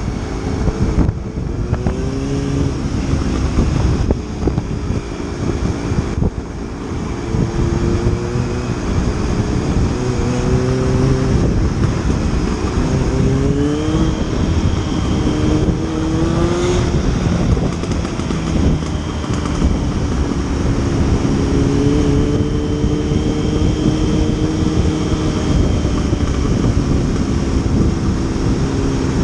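Motorcycle engine running while riding, its pitch climbing several times as it accelerates through the gears in the middle stretch, then holding fairly steady near the end.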